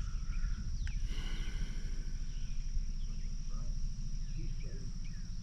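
Outdoor ambience: a steady high-pitched insect trill over a low rumble, with a faint click about a second in.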